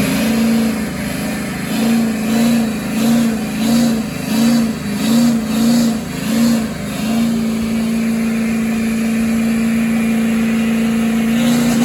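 Vehicle engine revved in quick rhythmic blips, about one and a half a second, then held at a steady high rev for the last few seconds of a burnout.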